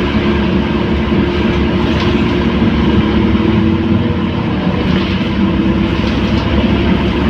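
Scania K230UB city bus's diesel engine running at a steady pitch, with a low rumble of road and body noise underneath.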